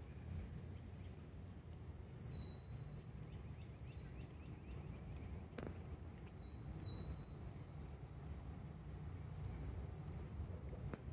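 Birds peeping: short high calls that slide downward, repeating every second or two over a low steady rumble.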